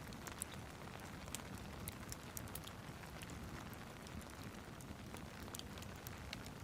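Steady rain with a crackling fire mixed in: a continuous soft hiss of rain under many small, sharp crackles and pops scattered irregularly throughout.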